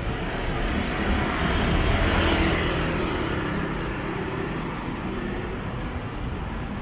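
Street traffic with a motor vehicle passing close by, loudest about two seconds in and then fading.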